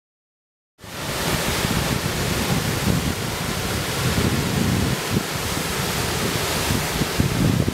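Steady rush of a waterfall swollen by heavy rain, cutting in suddenly just under a second in, with wind buffeting the microphone.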